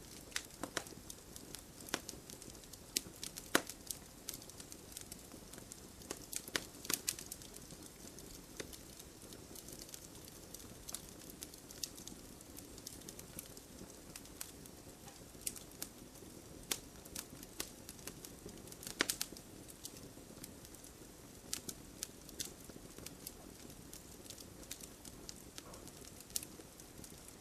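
Wood campfire burning, with irregular sharp crackles over a steady low rush of the flames; a few louder cracks come about three and a half seconds in, around seven seconds, and near nineteen seconds.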